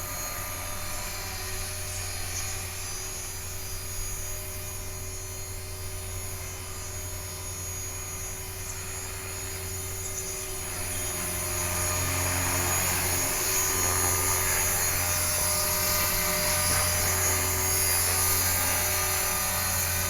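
HK-450 electric RC helicopter in flight: steady whine of its motor and drone of the main rotor, getting louder about halfway through.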